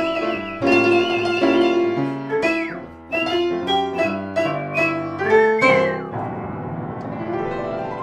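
A piano is played in chords, with a whistled melody over it. The whistle holds a note with vibrato, then slides down on short notes about two and a half seconds and about five and a half seconds in. Near the end a run of piano notes climbs upward.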